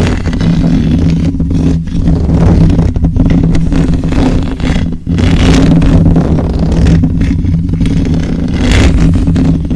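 Loud close-miked rubbing and scratching on an object against the microphone, with a steady low hum under it and brief breaks about two and five seconds in.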